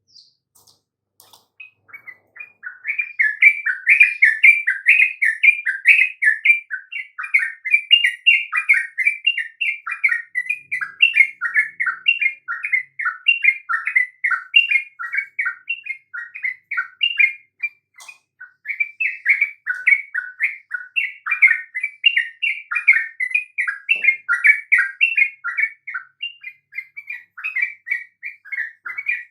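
Sooty-headed bulbul (trucukan) singing without pause, a fast run of short, bubbling whistled notes that starts about two seconds in.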